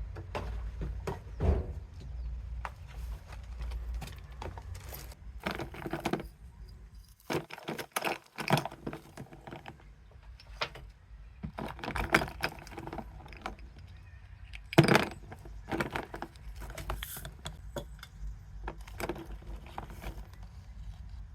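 Irregular light clicks, clinks and rustles of small objects being handled, with a faint low hum underneath.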